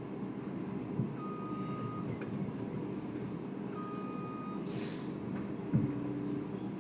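Demolition tractor's diesel engine running steadily, with a warning beep sounding twice, each about a second long. A knock about a second in and a louder knock near the end as the machine strikes the house, with a short hiss between them.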